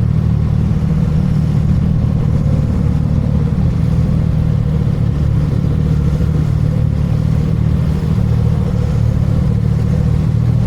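Motorcycle engines running: a steady low rumble with one engine note wavering slightly in pitch.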